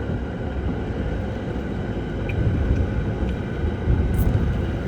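Steady low rumble of a vehicle running, engine and road noise.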